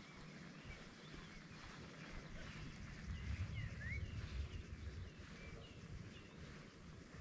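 Faint birds chirping outdoors, a scattering of short high notes, over a low rumble that swells about three seconds in and eases off about a second and a half later.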